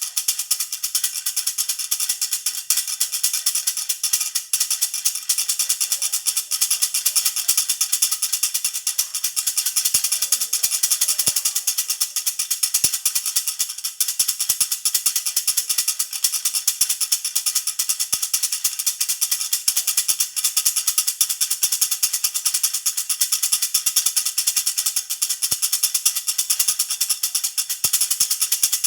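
Jhunjhuna baby rattle shaken steadily and rapidly, a bright, continuous jingling rattle with no pauses.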